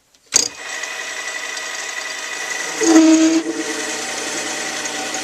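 Small metal lathe switched on with a click and running steadily, its motor and gearing giving a steady whine with several fixed tones. It gets louder for about half a second about three seconds in.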